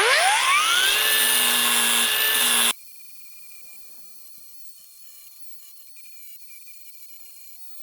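Cordless angle grinder with a flap disc spinning up with a rising whine, running at a steady high pitch for about two seconds, then cutting off abruptly; after that only a faint steady hum remains.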